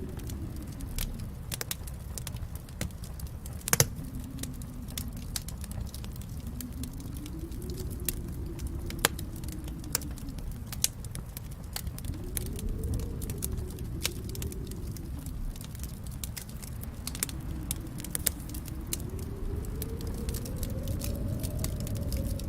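Wood fire in a fireplace crackling: a steady low rumble of flames that swells and eases every few seconds, with frequent sharp pops and snaps. The loudest pop comes about four seconds in.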